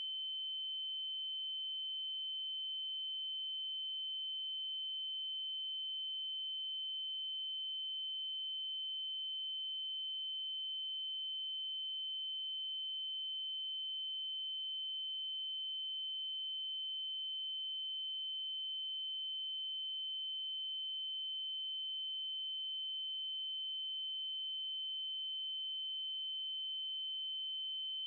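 Steady electronic test tone: a 3072 Hz triangle wave held at one unchanging, high pitch, with faint overtones above it.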